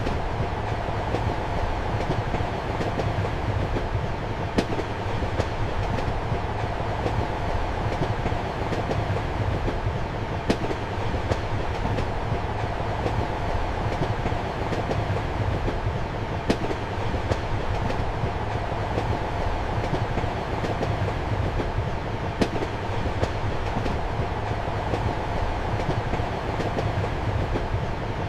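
Passenger train running steadily, heard from inside a compartment: a continuous rumble and hum, with sharp wheel clacks over the rail joints, the loudest coming about every six seconds.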